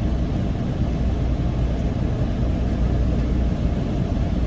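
Steady low rumble of a car or truck driving, with no distinct events.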